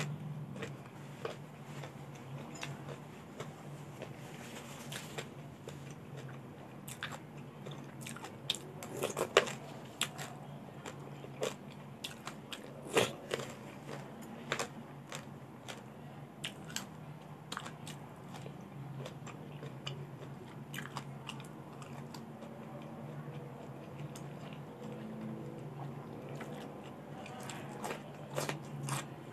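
Close-miked chewing of crunchy raw vegetables, with irregular crisp crunches and bites, over a steady low hum.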